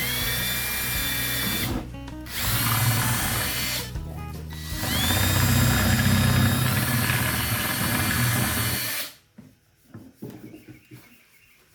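Power drill running in three bursts, each starting with a rising whine as it spins up, boring a hole in a chicken waterer for a tapered fitting. It stops about nine seconds in.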